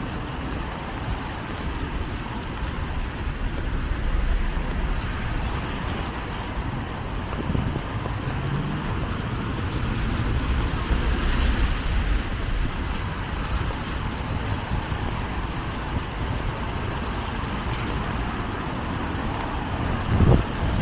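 Traffic on a rain-wet city avenue: the steady run of passing cars and buses, their tyres hissing on the wet road, with one vehicle passing closer about eleven seconds in.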